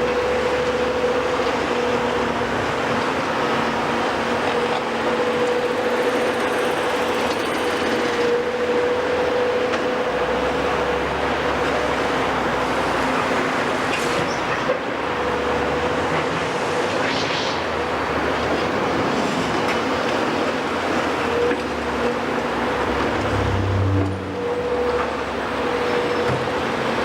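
Heavy diesel construction machinery running steadily at demolition work, with a constant whine held over the engine noise.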